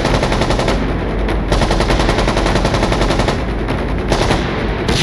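Rapid automatic gunfire: a continuous string of sharp shots in quick succession.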